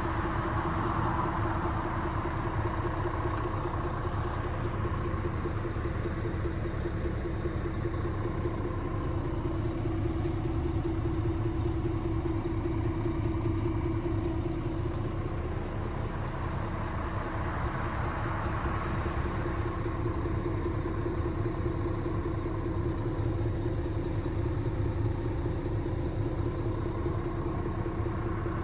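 Scania R450 truck's Euro 6 diesel engine idling steadily, a low rumble with a constant hum over it.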